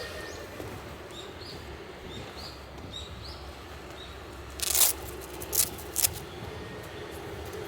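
Outdoor ambience with a low steady background and faint, short rising bird chirps in the first half. About four and a half seconds in come three short, loud swishing sounds, a little over half a second apart.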